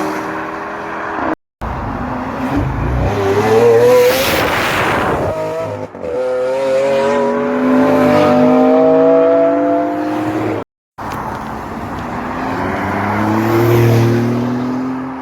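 Performance car engines accelerating past in three separate passes, each engine note climbing steadily in pitch as the car speeds up.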